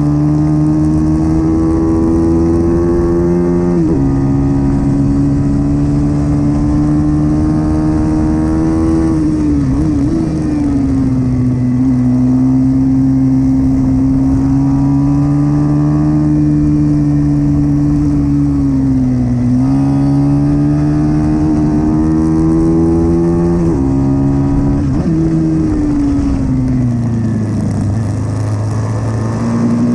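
Pit bike's small single-cylinder engine running hard under load, its pitch climbing steadily and then dropping abruptly at a series of gear changes and throttle lifts, about half a dozen times.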